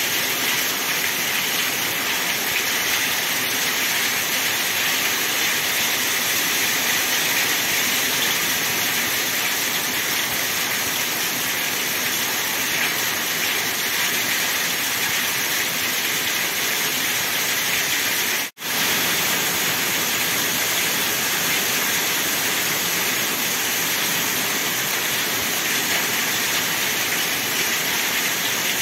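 Heavy rain pouring steadily, a dense even hiss, broken by a split-second gap about two-thirds of the way through.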